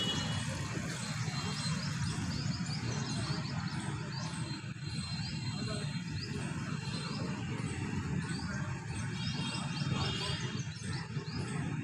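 Many small birds chirping in quick, repeated high notes over a steady low background rumble.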